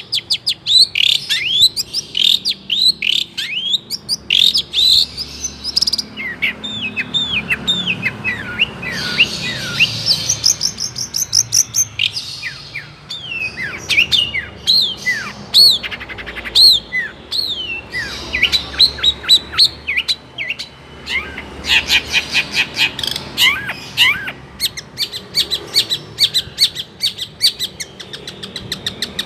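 Long-tailed shrike (cendet) singing a loud, varied song packed with mimicked calls of other birds: quick downward-sweeping whistles, chattering trills and fast runs of sharp chips.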